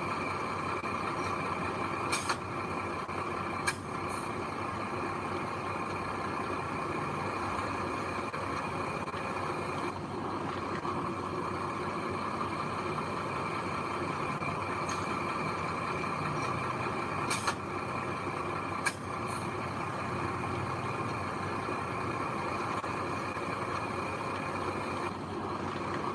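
Heavy construction machinery engines running steadily, with a few brief sharp clicks.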